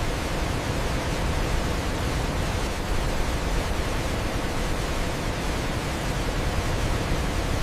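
Waterfall: a steady, even rush of falling water, heaviest in the low end, with no change.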